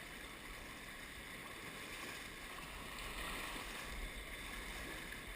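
River water rushing and splashing steadily around a paddle raft, with low wind rumble on the microphone.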